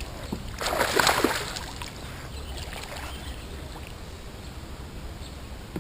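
A kayak paddle stroke splashing through the water about a second in, followed by quieter water sounds over a low steady rumble.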